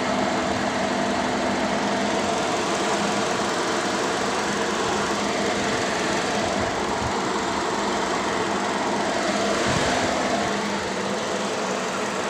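Toyota Vios four-cylinder petrol engine idling steadily after a new fuel pump has cured its hard starting; it dips slightly in level near the end.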